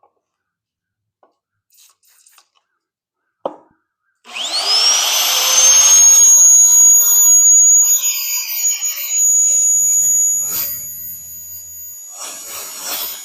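An electric drill's motor spins up with a rising whine about four seconds in, after a single click, then runs steadily while drilling a hole in half-inch steel plate.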